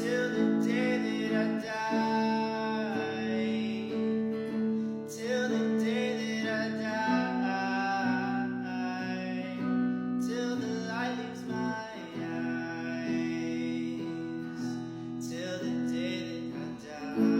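Acoustic guitar strumming chords, with a voice singing along at times.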